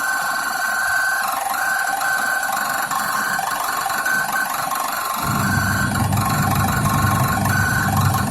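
Haier semi-automatic washing machine motor running with a steady high whine and hum; about five seconds in a deeper, even hum joins it.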